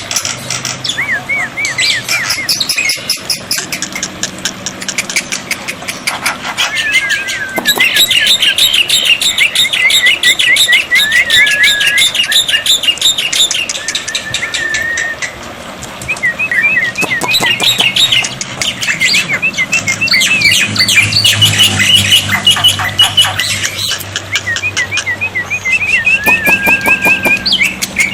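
Black-winged myna (jalak putih) calling continuously: fast chattering chirps and squawks mixed with repeated runs of short whistled notes, with a brief lull about halfway through.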